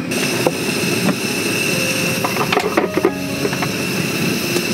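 Light rain falling steadily on a camping tarp, with a few small clicks and knocks about two to three seconds in.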